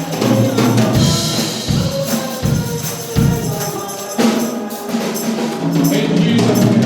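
Gospel music: a choir singing over a band, with a tambourine shaking along to the beat.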